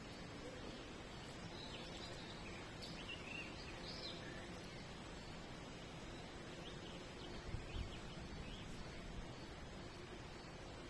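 Faint, scattered chirps of small birds over a steady outdoor background hiss, with a brief low bump about two-thirds of the way in.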